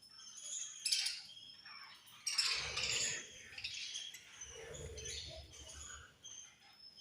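Several budgies chirping and chattering in overlapping short calls, with louder, sharper bursts about a second in and just after two seconds.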